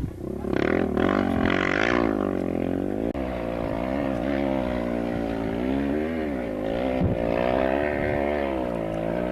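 Off-road rally engine revving hard, its pitch climbing and dropping several times as the throttle is worked.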